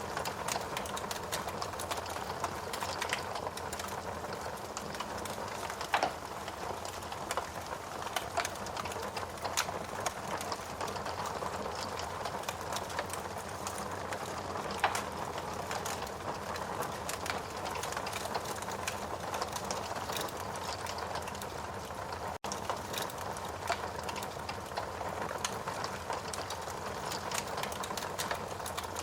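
Wood logs burning in a fireplace, crackling steadily with a constant hiss and many small irregular pops. Sharper, louder snaps come about six seconds in and again around fifteen seconds in. The sound cuts out for a split second about two-thirds of the way through.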